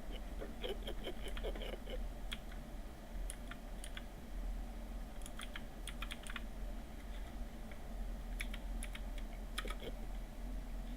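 Typing on a computer keyboard in short, irregular runs of keystrokes.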